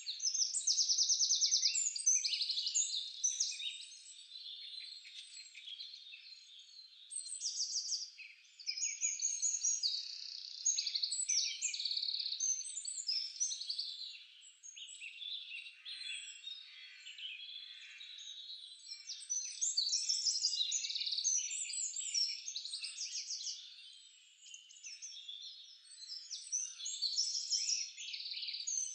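Songbirds singing: a dense run of high chirps and rapid trills that grows louder and quieter in stretches of a few seconds.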